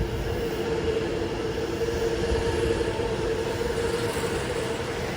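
Seibu 6000 series electric train running along the station platform: a steady rolling rumble with a steady hum held at one pitch throughout.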